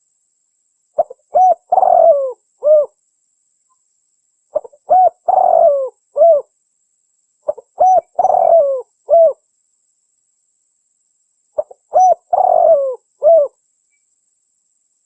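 Spotted dove (tekukur) cooing: four song phrases a few seconds apart, each a couple of short coos, one long coo that falls in pitch, and a short closing coo. It is a recorded lure call used to draw wild doves in for trapping.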